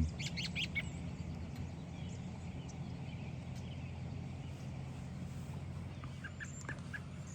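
Birds calling in short chirps, a quick run of them in the first second and a few more near the end, over a steady low hum.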